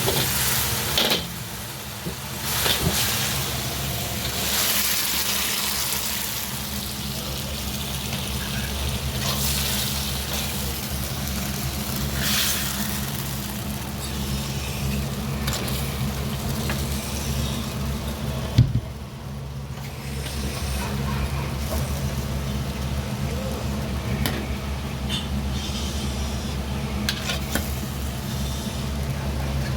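Food sizzling and frying in a wok over a restaurant kitchen burner, over a steady low hum of burner and exhaust, with a few sharp clanks of utensils.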